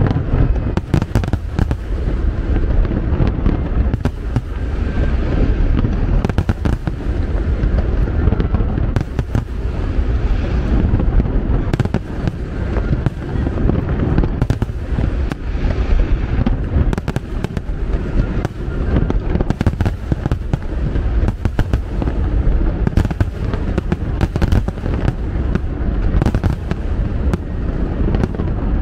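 A large fireworks display: shells bursting one after another without pause, many sharp cracks over a continuous low rumble.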